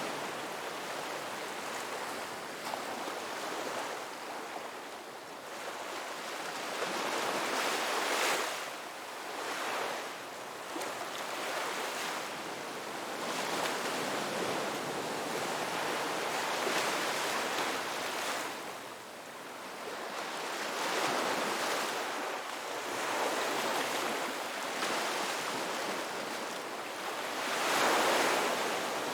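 Ocean waves breaking and washing on a beach: a continuous rushing surf that swells and ebbs every few seconds, the loudest wave breaking near the end.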